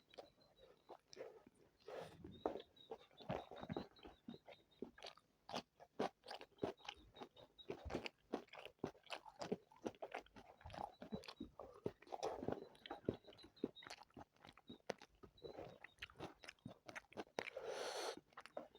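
Close-miked chewing of spicy chicken biryani: many irregular wet clicks, smacks and crunches of the mouth working the food, with a short louder rush of noise near the end.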